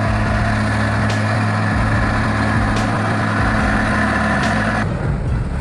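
Heavy diesel truck engine running at a steady, even pitch, labouring on a steep road, with faint regular ticks. The higher sounds drop away abruptly near the end.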